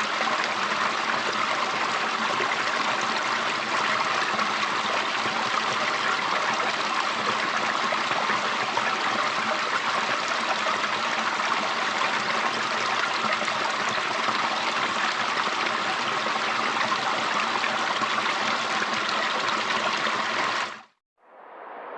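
Mountain river water flowing, a steady rushing and trickling. Near the end it cuts off abruptly and, after a brief gap, a quieter, duller rushing sound begins.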